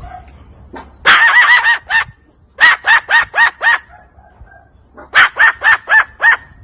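A bird calling in three quick runs of five or six short notes, each note rising and falling in pitch.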